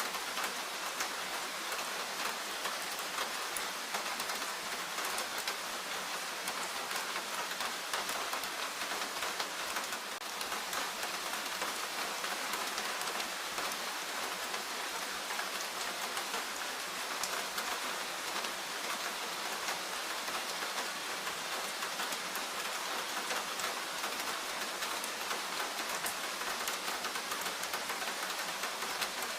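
Steady rain falling in a forest, a dense even hiss with many fine drop ticks.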